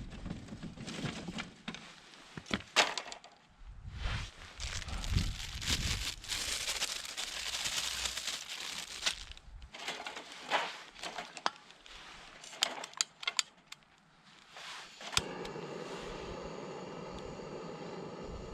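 Irregular crinkling and cracking handling sounds with sharp clicks, then, from about fifteen seconds in, a steady mechanical hum.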